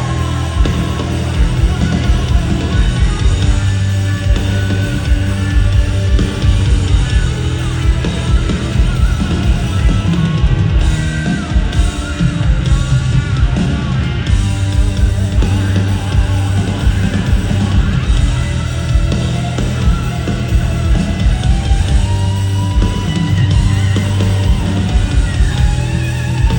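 Live rock band playing a loud instrumental passage, with bass and electric guitar and no singing.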